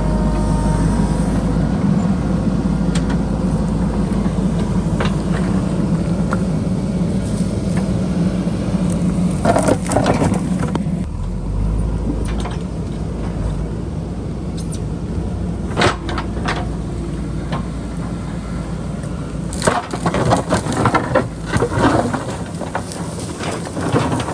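JCB backhoe loader's diesel engine running steadily while its bucket breaks into rock and boulders, with cracking, crunching impacts about ten seconds in, once more a few seconds later, and in a quick run near the end.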